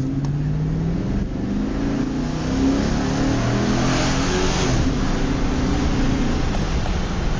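2007 Chevrolet Avalanche's 5.3-litre V8 accelerating hard from a launch. The engine pitch climbs and steps back down as the transmission upshifts, with wind and road noise swelling as speed builds.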